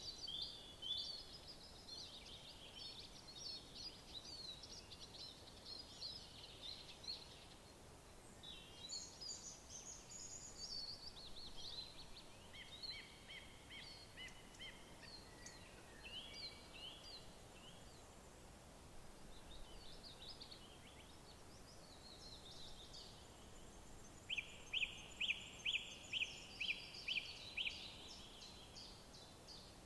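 Several wild songbirds singing, with overlapping short chirps and trills. Near the end one bird sings louder, a run of about a dozen evenly repeated notes at roughly three a second.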